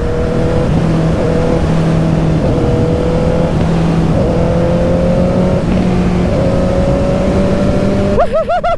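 Honda CB650 inline-four motorcycle engine with a loud exhaust, running under way; its pitch climbs slowly and in small steps as the bike picks up speed.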